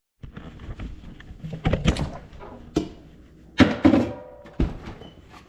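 Kitchen clatter from handling cookware and utensils during food preparation: scattered knocks and thuds, the loudest about halfway through and followed by a short ringing.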